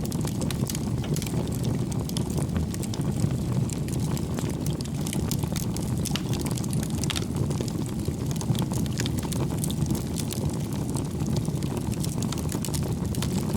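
Wood fire burning: a steady low rush from the flames, with many small irregular crackles and pops from the burning logs.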